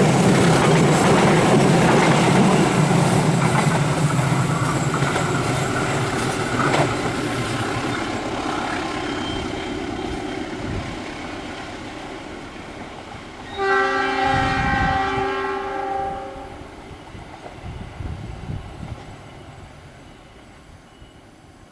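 Progo passenger train rolling past on the rails, its noise fading steadily as it moves away. About two-thirds of the way in, a locomotive horn sounds for roughly two seconds, then the train fades out.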